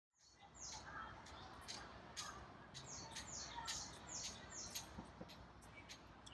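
Small birds chirping: a scattered run of short, high chirps that fall in pitch, with sharp little clicks among them over faint background noise.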